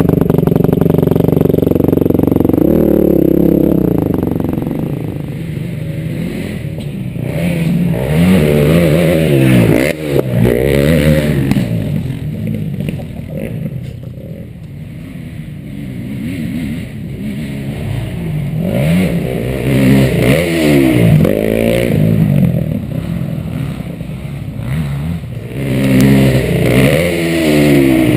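KTM 250 SX-F motocross bike's four-stroke single-cylinder engine, recorded on the bike, revving up and falling back over and over as it is ridden hard through gears, with a quieter stretch of lower revs about halfway through.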